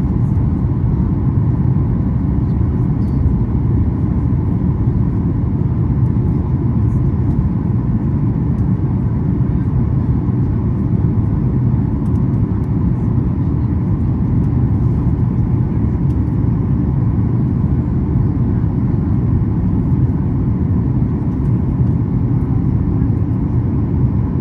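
Steady, loud low rumble of a Boeing 737-8 MAX cabin in flight: airflow and CFM LEAP-1B engine noise heard from an economy seat, with a faint steady hum on top.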